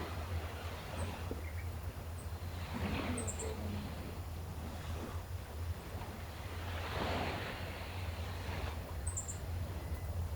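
Gentle sea waves washing in, swelling about three and seven seconds in, over a steady low rumble. Small birds give brief, very high chirps several times.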